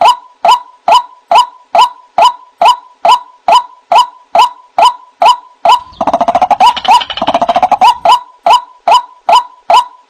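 White-breasted waterhen (ruak-ruak) calling: a loud, short "wak" note repeated evenly about twice a second. About six seconds in, a rapid, denser run of lower croaking calls joins for roughly two seconds, then the steady repeated note carries on alone.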